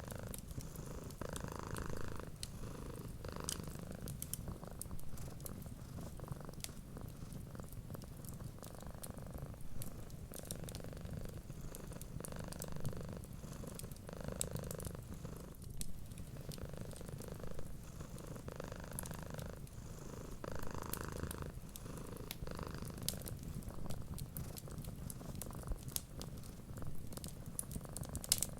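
Domestic cat purring steadily, swelling and easing with each breath about every second or two, with faint, sparse crackles from a fireplace fire.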